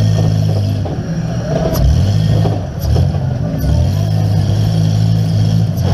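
Minivan engine revving hard, heard from inside the stripped cabin, its pitch holding, dropping and climbing again several times as the driver works the throttle. A few sharp knocks cut through it, about a second in and again near the end.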